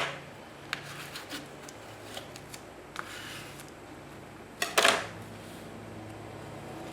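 Paper and craft materials being handled on a table: scattered light clicks and taps, with a louder brief rustle near five seconds in, over a steady low hum.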